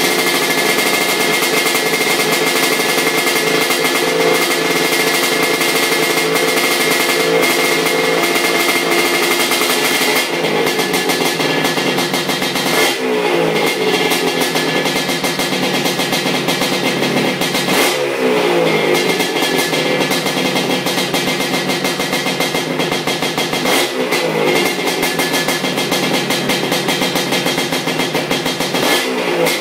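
ESR 310 big-bore two-stroke engine in a Honda 250R three-wheeler running on its first heat cycle, held at a steady run with the throttle blipped four or five times, each rev falling back.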